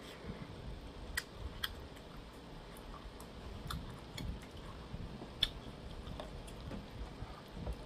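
A person chewing food, with a handful of scattered sharp clicks at irregular intervals.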